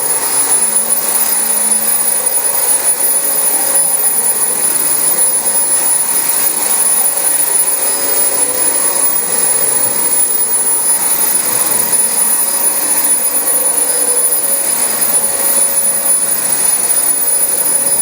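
Dyson DC25 upright vacuum cleaner running steadily as it is pushed over carpet: a constant rush of air with a thin high-pitched motor whine above it.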